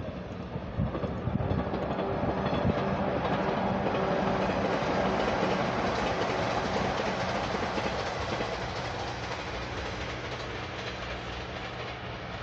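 JR 185-series electric train passing at speed, the rumble of its wheels on the rails growing louder as it draws near, peaking mid-way, then fading as it moves off.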